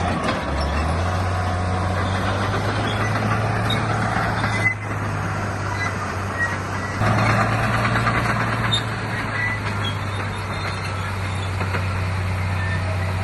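Heavy diesel earthmoving machinery running: a steady low engine drone with rattling and clatter over it, a single sharp knock about four and a half seconds in, and the engine sound stepping up a little about seven seconds in.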